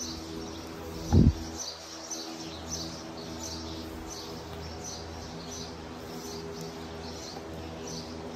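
Small birds chirping over and over, with a steady low hum underneath. One short, loud low thump comes about a second in.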